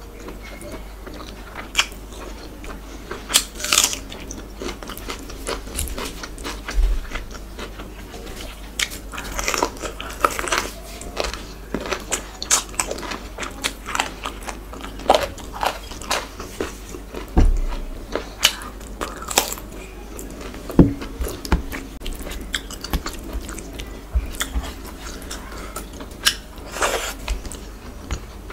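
Close-miked eating: chewing and wet mouth smacks on soft khichuri and chicken, with irregular sharp clicks and a few louder bites, alongside fingers squishing rice in a steel tray.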